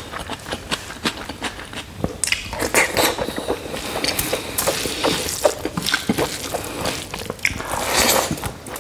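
Close-miked eating of rice and pork by hand: wet chewing and lip-smacking in quick irregular clicks and smacks, with squishing of the food.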